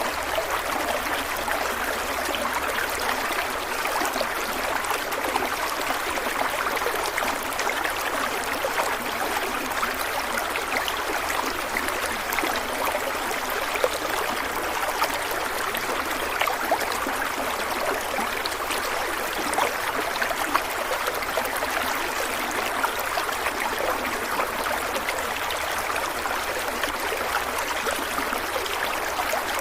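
Stream water running steadily over rocks, a continuous rushing with small splashes and gurgles throughout.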